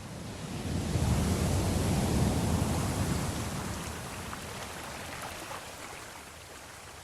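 Sea wave washing in: a rushing swell of water that builds about a second in and slowly fades away over the next few seconds.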